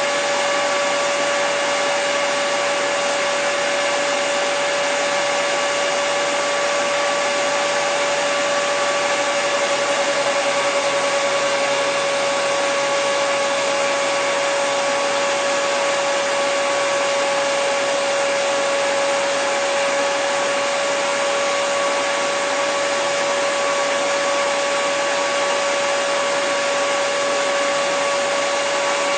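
Hair dryer running continuously: a steady rush of blown air with a constant motor whine, no change in speed.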